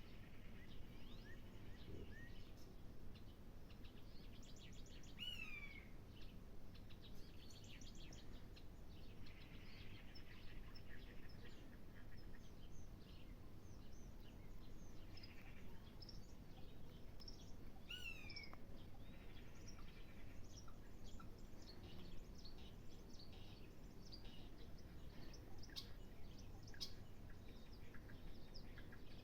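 Faint birdsong: scattered short chirps from several birds, with a down-slurred whistled phrase heard twice, over a steady low background rumble.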